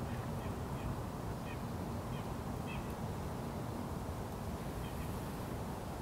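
Steady low outdoor rumble with a bird giving short, faint chirping calls again and again.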